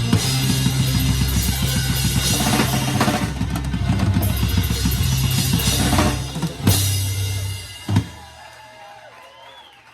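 Drum kit playing with a live band through the closing bars of a song, bass drum and snare driving hard, with a final big hit about eight seconds in that rings out and dies away into faint crowd noise.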